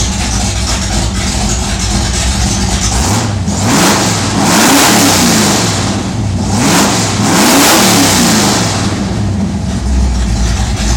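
A 1969 Dodge Dart's 340 small-block V8 idling, then revved twice, each time rising in pitch and falling back to idle.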